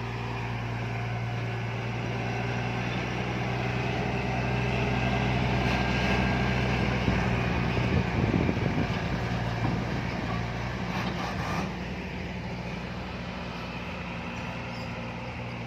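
A heavy diesel container truck's engine pulling up a mountain grade as it passes, its steady drone swelling to the loudest point about halfway through and then fading away.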